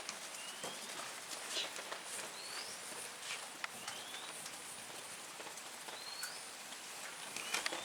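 A bird repeating a short upward-sliding whistle every second or two, over outdoor background hiss, with scattered light clicks and taps.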